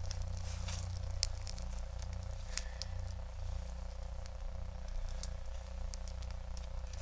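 Campfire crackling, with scattered sharp pops, the loudest about a second in and again past two seconds, over a steady low rumble.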